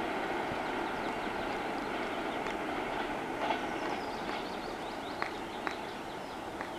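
Passenger train's coaches rumbling along the rails as the train moves away, the sound slowly fading. A few short sharp ticks come in the later seconds.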